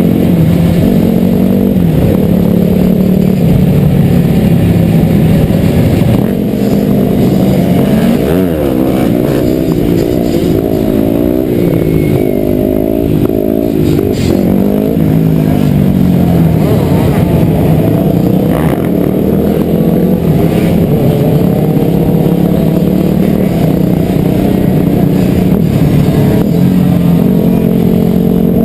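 Several dirt bike engines running and revving, their pitch rising and falling over and over.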